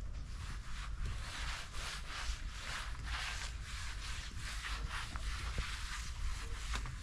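Cloth rags being rubbed and wiped across a damp surface to dry it, a run of repeated swishing strokes.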